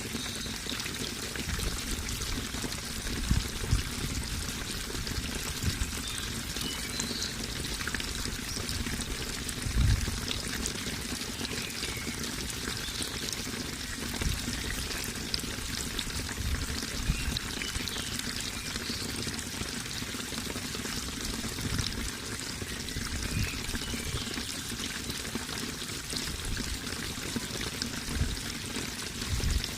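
Running water, pouring and trickling steadily, with occasional low thumps.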